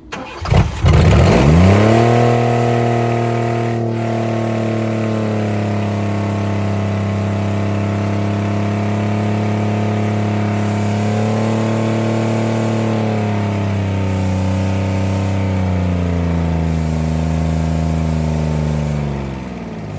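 Chevy 4.3-litre V6, throttle-body injected, starts and revs up within the first two seconds, then runs at high, steady revs with a couple of brief dips. Near the end it winds down and shuts off. It is a worn, overheated engine being run to destruction after nitrous abuse.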